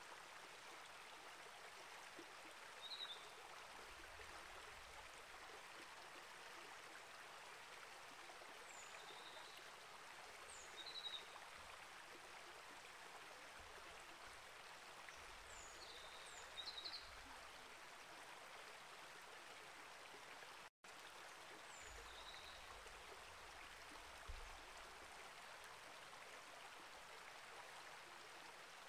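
Faint, steady flow of a small rainforest creek, with short high bird chirps every few seconds above it. A split-second dropout to silence about two-thirds of the way through.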